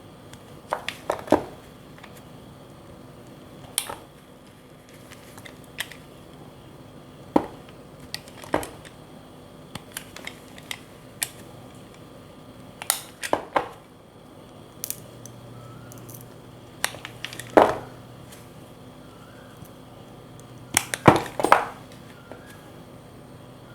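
Knife blade cutting into bars of soap: short, sharp crunching cuts at irregular intervals, a second to a few seconds apart, some in quick pairs.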